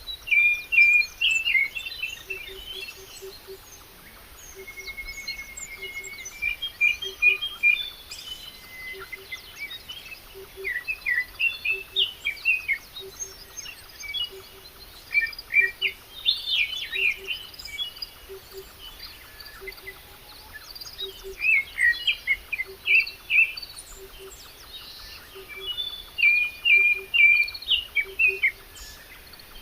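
Several small birds singing and chirping in bursts of quick trills and whistles, with a soft low note repeated steadily underneath.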